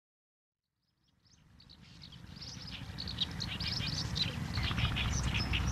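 Many birds chirping over a low outdoor rumble, fading in from silence about a second in and growing steadily louder.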